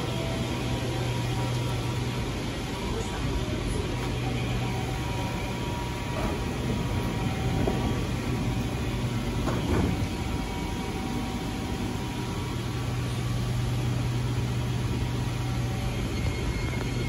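Kawasaki & Nippon Sharyo C751B MRT train standing at the platform with a steady low hum, then starting to pull away near the end as a high whine comes in.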